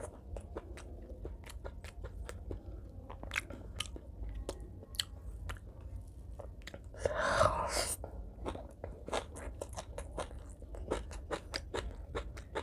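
Close-miked mukbang chewing: a mouthful of rice and fried fish being chewed with many short wet mouth clicks and crunches. About seven seconds in there is a louder noisy sound lasting about a second.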